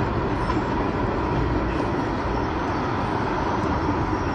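A steady, even rumble from the Norfolk & Western 611 steam excursion train rolling across a trestle.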